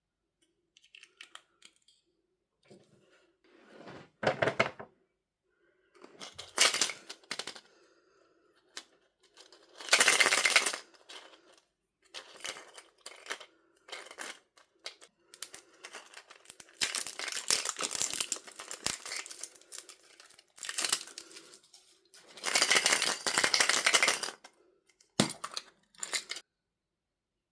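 Surprise-toy packaging being torn open and crinkled by hand in several bursts of crackling, with small clicks and taps in between.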